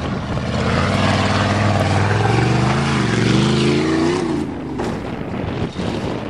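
1988 Chevrolet pickup truck's engine revving hard under load on a hill climb, its pitch rising for about three seconds, then dropping away suddenly about four seconds in.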